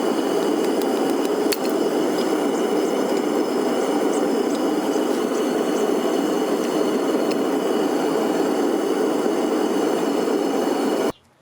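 Gas-fired melting furnace burner running with a steady rushing noise and a faint high whistle, with a few small clicks. It cuts off abruptly near the end.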